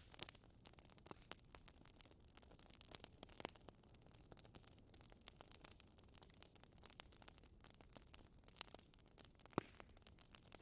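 Wood fire crackling faintly: irregular sharp pops and snaps over a soft hiss, with one louder pop about nine and a half seconds in.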